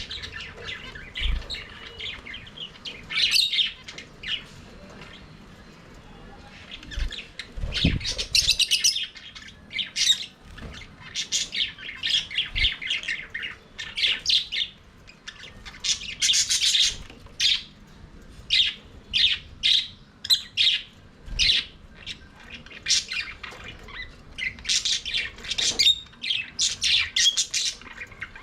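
A flock of budgerigars chirping and chattering in an aviary, a steady stream of short, rapid calls. A few dull low thumps are heard among the calls.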